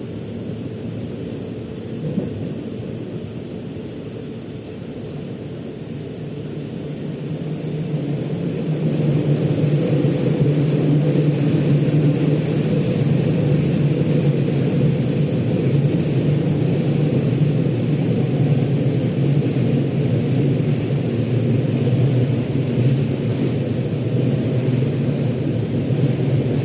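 Metro train running, heard inside the carriage: a steady low rumble with a drone that grows louder about a quarter of the way in and then holds.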